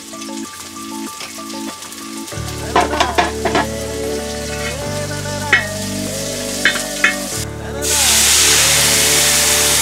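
Sliced onions sizzling as they fry in hot oil in a large aluminium pot, with a few sharp knocks of the spatula against the pot while stirring. About eight seconds in, water poured into the hot pot sets off a much louder, steady hiss.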